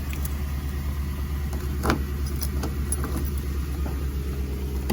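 GMC Yukon XL engine idling steadily at a raised cold-start idle just after a remote start, with a few light clicks over it.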